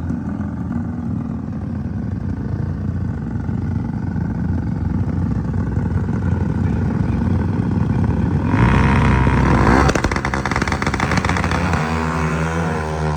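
Drag-race motorcycle engine running steadily, then revving hard in a loud surge about eight and a half seconds in, with the engine pitch rising and falling near the end.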